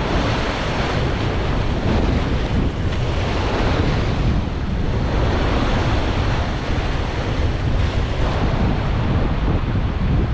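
Ocean surf washing in and out around shoreline rocks, a loud steady rush that swells and eases, with wind buffeting the microphone as a low rumble.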